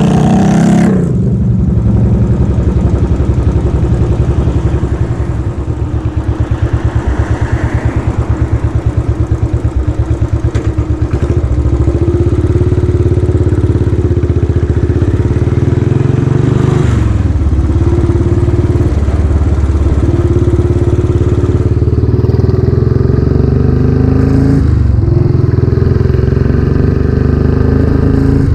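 Royal Enfield Classic 500's air-cooled single-cylinder engine running through a newly fitted aftermarket silencer while riding. The engine eases off early on, picks up again about a third of the way in, and dips briefly twice in the second half before pulling on.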